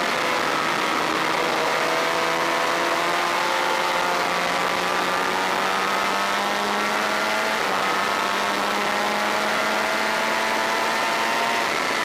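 Honda VFR400 race bike's V4 engine under load, heard onboard at speed, its pitch climbing slowly and steadily as it pulls, over a steady rush of wind. The note drops near the end.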